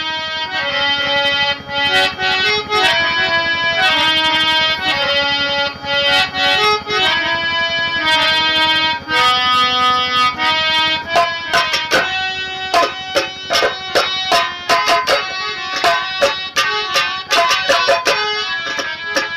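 Harmonium playing a nautanki nagma melody in held, stepping notes, joined about eleven seconds in by fast, driving drum strikes.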